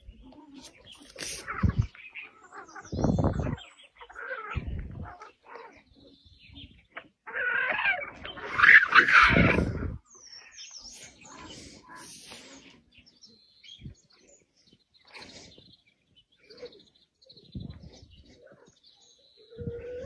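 Birds chirping and calling in short, irregular bursts, with a louder burst of sound about eight to ten seconds in.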